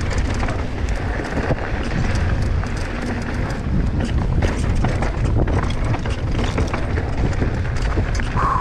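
Mountain bike descending a rough, rocky trail: tyres running over rock and the bike rattling with many sharp clicks, under heavy wind rumble on the camera's microphone.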